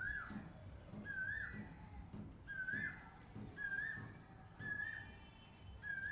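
Asian koel, the black cuckoo of India, calling: a short rising whistled note repeated about once a second, six times over.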